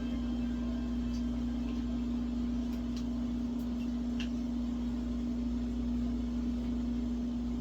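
Steady machine hum with one constant low tone, and a few faint ticks and clicks on top.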